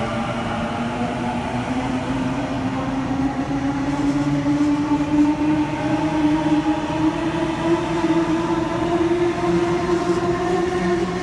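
A train accelerating: a tone from its drive rises slowly and steadily in pitch over several seconds, over a steady running rumble that gets a little louder about four seconds in.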